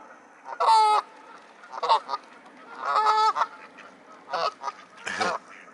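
Canada geese honking, about five separate calls, the loudest about a second and three seconds in.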